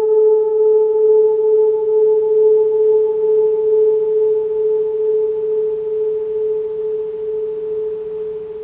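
A sound-healing metal instrument sounding one steady, pure singing tone with a few fainter higher overtones. The overtones fade partway through and the tone eases slightly toward the end.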